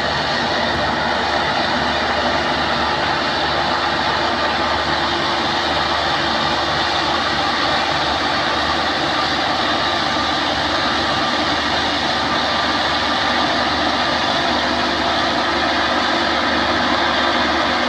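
MCH 2000 PJ Star rice combine harvester running steadily, its engine and machinery giving an even, unbroken mechanical noise.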